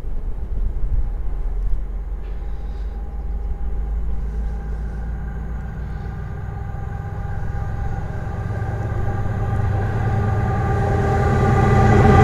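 Diesel freight locomotive approaching: a low engine rumble with a steady multi-tone hum that grows steadily louder through the second half.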